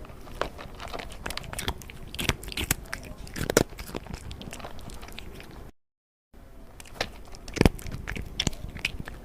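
A cat chewing and biting crunchy food, with sharp, irregular crunches. The sound cuts out to silence for about half a second near the middle, then the crunching resumes.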